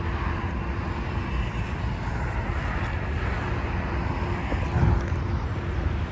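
Jet airliner engine noise, a steady rumble with a faint constant hum over it, and a low thump about five seconds in.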